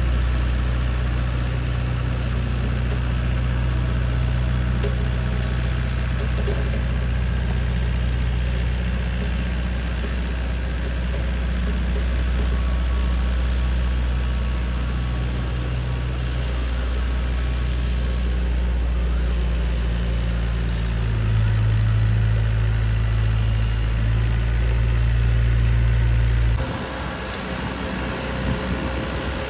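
Massey Ferguson 2630's 65 hp four-cylinder diesel engine running steadily while working an 8-foot rotavator. About three seconds before the end, its low note drops away suddenly and the sound gets quieter.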